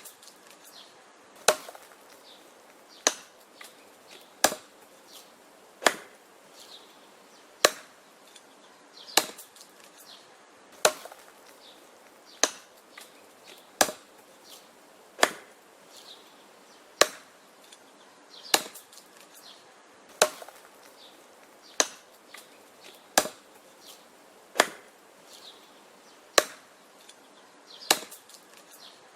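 Wood being chopped by hand: a sharp chop about every one and a half seconds in a steady rhythm, with fainter knocks and cracks between the strikes.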